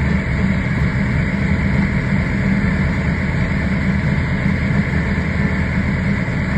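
Car engine idling steadily, its sound heavy in the low end and rough in texture.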